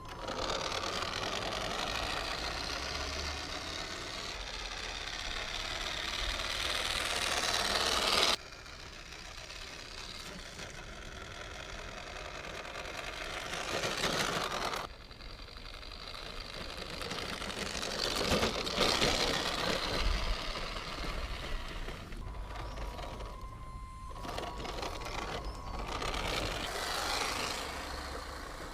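Electric motor and gearbox of a vintage Tamiya Hilux 4x4 RC pick-up truck whining as it drives, the pitch rising and falling with the throttle. The sound builds up and cuts off abruptly twice, near 8 and 15 seconds in.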